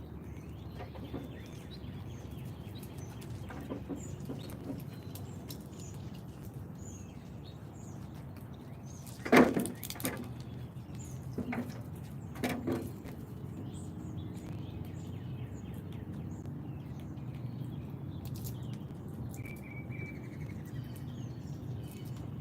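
Outdoor backyard ambience: a steady low rumble with faint, scattered small-bird chirps. A loud sharp knock about nine seconds in, then two softer knocks a few seconds later, and a short falling whistle near the end.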